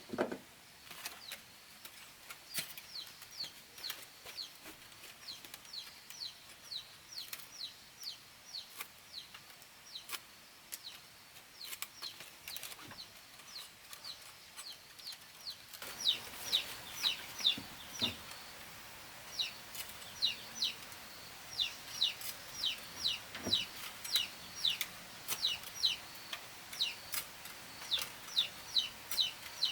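Young chicks peeping: quick series of short, falling high chirps that grow louder about halfway through. Scattered light clicks are heard among them.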